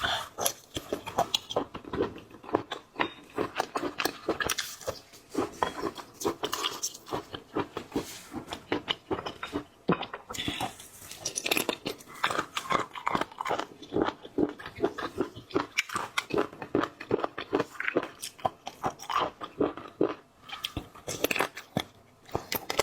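Close-miked chewing and crunching of seafood: a dense run of irregular crackling bites and mouth sounds.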